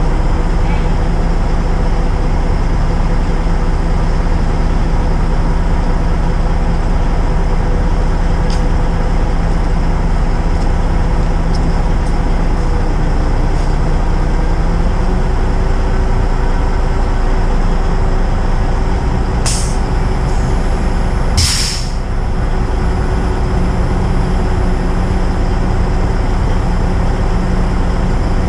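Heavy diesel engine running steadily, its pitch shifting a little about halfway through, with two short sharp air hisses like air-brake releases about two-thirds of the way in.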